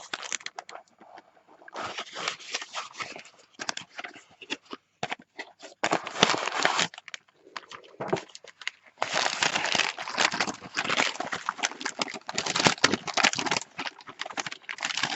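Parcel packaging being unwrapped by hand: irregular crinkling, rustling and tearing in clusters, busiest in the second half.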